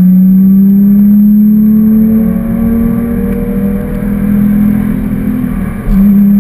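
Porsche 997.2 GT3's 3.8-litre flat-six under full load, heard from inside the cabin, its pitch climbing slowly as the car accelerates. It briefly drops away near the end, as in a gear change, then pulls hard again.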